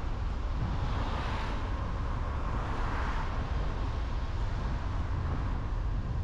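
A car's steady road and wind noise while driving on a highway: a low rumble, with a rushing hiss that swells about a second in and again about three seconds in.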